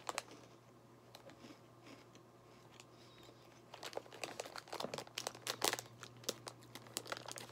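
A small crunchy chocolate wafer snack being chewed. It is quiet at first, then from about halfway through comes a quick run of crunches and crinkles.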